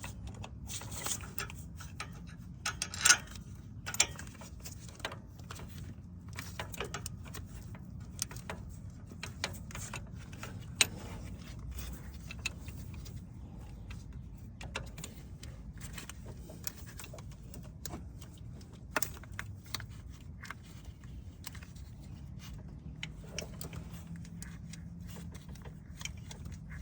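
Hand tools and metal fasteners clicking and clinking irregularly during hands-on work under the hood, with a few louder knocks in the first few seconds, over a steady low hum.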